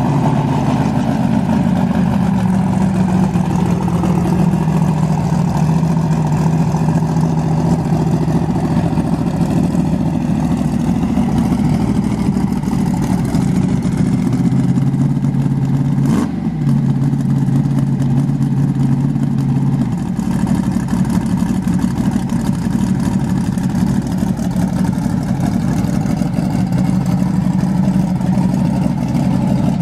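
Car engines running steadily at low speed, with a single sharp click about sixteen seconds in.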